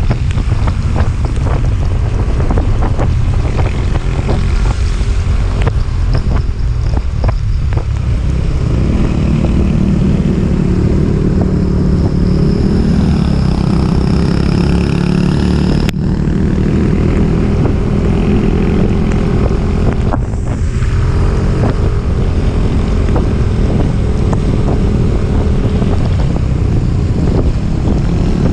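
A vehicle engine running steadily under load, buried in heavy wind noise on the microphone. About eight seconds in, the engine note becomes clearer and steadier. There is a single sharp click about halfway through.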